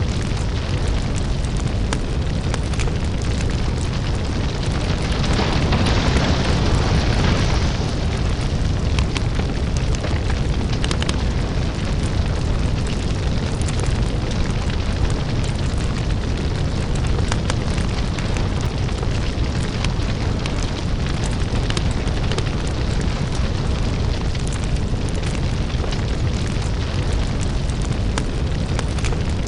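Crackling lava: a steady deep rumble under dense small crackles and pops, swelling briefly a few seconds in.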